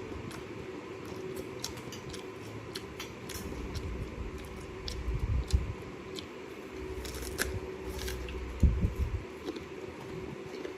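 Close-miked eating of fruit: scattered crisp clicks and wet, squishy biting and chewing, with heavier low thumps about five seconds in and again near the end, over a steady faint hum.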